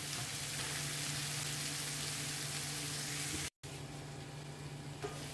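Fish masala sizzling in a frying pan: a steady hiss with a low hum under it. It breaks off about three and a half seconds in and comes back softer with a stainless steel lid over the pan.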